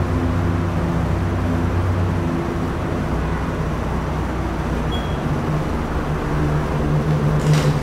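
Steady low machine hum with several even pitch lines, from equipment or ventilation running in the room. About five seconds in there is a faint short high beep, and near the end a click.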